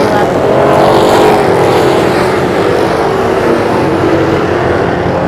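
Street stock race cars running at speed on a short oval track, loud and continuous. The engine pitch rises about a second in, then falls away slowly as the cars go by.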